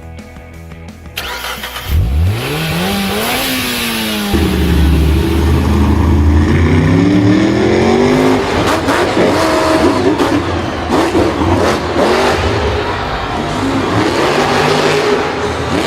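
A motor vehicle engine revs up sharply about two seconds in, then runs hard with its pitch rising and falling as it accelerates, over a rushing noise.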